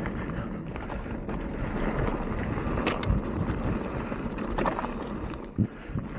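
Mountain bike rolling down a wet dirt trail: steady tyre and drivetrain noise with rattles and knocks over the ground, and a sharp click about three seconds in.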